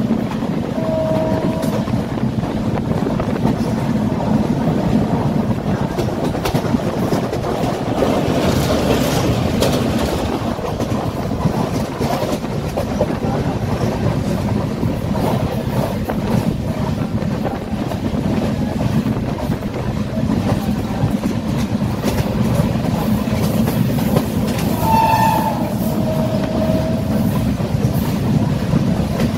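Passenger train running at speed, heard from an open coach window: a steady rumble of wheels on rails with a clickety-clack. Short horn tones sound about a second in and again near the end.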